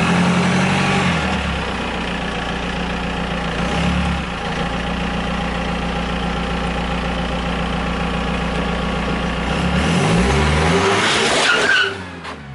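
A BMW car's engine running and revving as its wheel presses down on a block of ice, with a loud burst of cracking and crunching near the end as the ice gives way under the tyre.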